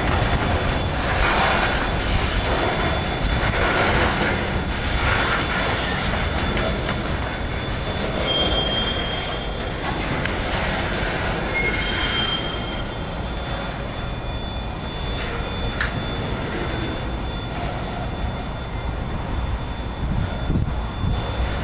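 Freight train of boxcars rolling past: a steady rumble of steel wheels on rail, with brief high wheel squeals about 8 and 12 seconds in and a sharp click near 16 seconds.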